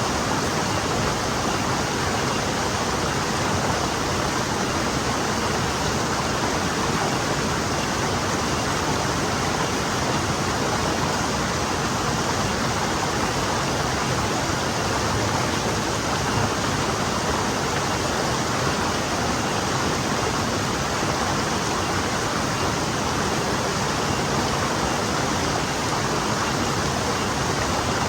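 Forest stream flowing over stones, a steady even rush of water with no breaks.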